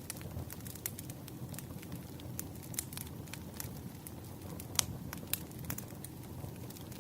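Wood fire crackling: irregular sharp pops and snaps over a low steady rumble, with one louder pop a little under five seconds in.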